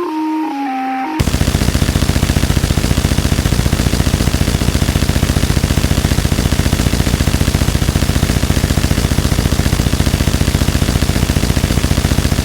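Harsh electronic noise music. A short run of stepped, descending electronic tones gives way, about a second in, to a loud wall of noise pulsing very rapidly and evenly, which cuts off suddenly at the end.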